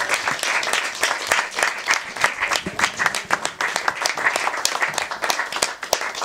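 A small audience applauding, a crowd of hands clapping unevenly and steadily.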